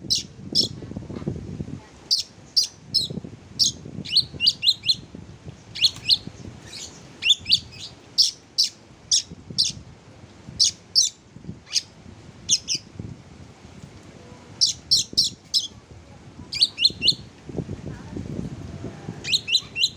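Oriental magpie-robin (kacer) chirping: short, sharp high notes in quick clusters of two to five, repeated every second or two.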